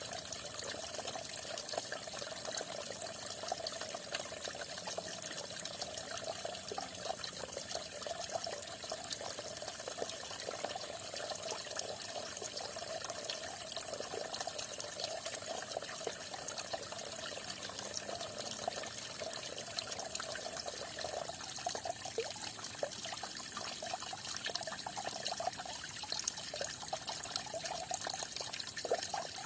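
Falling water splashing and trickling steadily.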